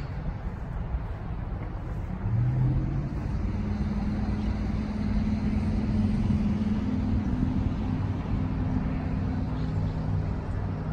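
A motor vehicle's engine running at a steady pitch, which comes in about two seconds in, over a low wind rumble on the microphone.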